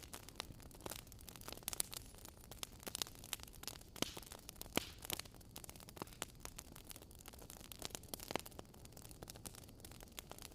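Wood fire crackling in a fireplace: irregular sharp pops and snaps over a low steady hiss, with a few louder pops around the middle.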